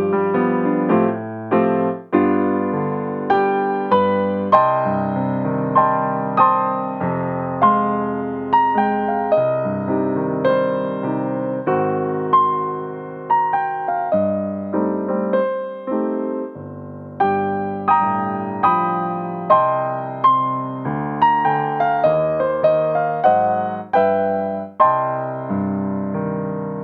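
Solo piano playing a slow, hymn-like chordal piece, chords struck about once or twice a second and each left to fade.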